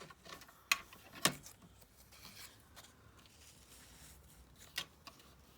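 Brittle old book paper being handled at a craft desk: faint rustling broken by three short sharp clicks, two close together about a second in and one near the end.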